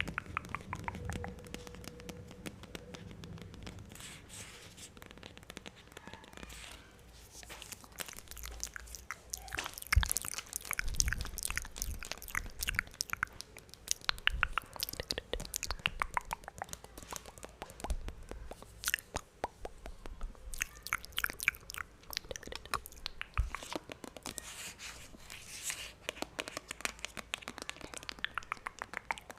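Close-miked wet mouth sounds: rapid, sharp clicks and smacks of lips and tongue, sparse at first and then dense for most of the stretch.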